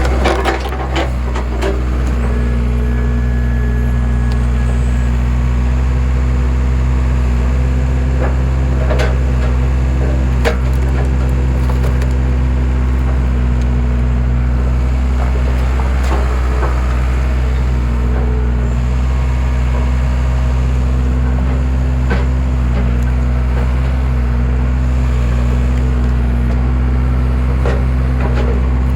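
Skid steer engine running steadily to drive a homemade hydraulic log splitter, with sharp cracks and knocks of logs splitting every few seconds.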